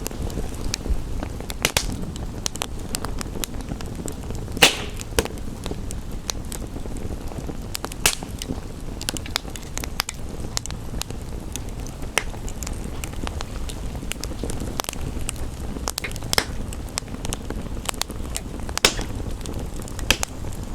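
Wood fire in a fireplace crackling, with irregular sharp pops, the loudest about four and a half seconds in, over a steady low rumbling noise.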